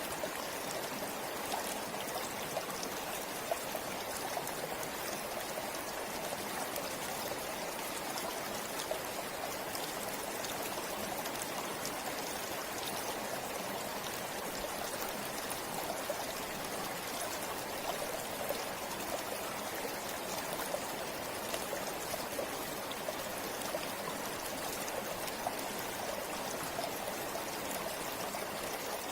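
River water flowing over rocks: a steady rushing with small splashes and trickles throughout.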